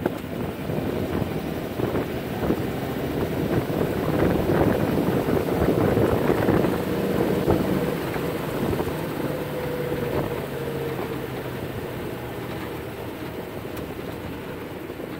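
1935 Ford convertible's flathead V8 running as the car drives, with wind and road noise in the open car. The engine grows louder over the first few seconds, then eases off gradually.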